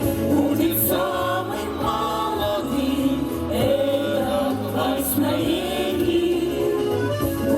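A song: a group of voices singing together over an instrumental backing with a steady, repeating bass line.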